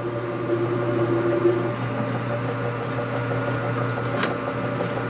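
Metal lathe running with a steady hum while a drill in the tailstock chuck cuts into a hot-rolled steel bar. The higher cutting sound stops about a third of the way in, leaving the spindle turning, and there is a single sharp click near the end.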